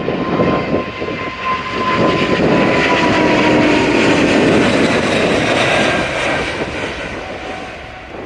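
Boeing 777-200ER twin-engine jet airliner taking off. Its jet engines make a loud roar with a whine that slowly falls in pitch, swelling in the middle and fading toward the end.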